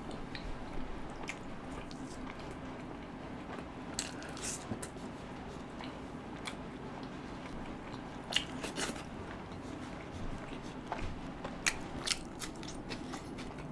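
Close-miked mouth sounds of a person eating butter chicken with garlic naan: steady chewing with scattered sharp crunches and wet smacks, the loudest around four seconds in, about eight to nine seconds in, and again near the end, as a raw onion slice is bitten.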